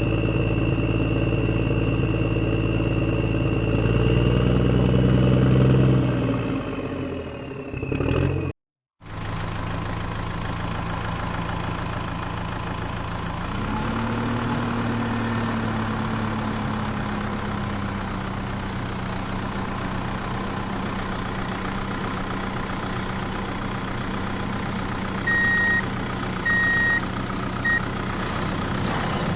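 Vehicle engine running with a steady hum. It revs up a few seconds in and drops out abruptly at a cut, then runs steadily again with a brief rise in pitch. Near the end come three short high beeps.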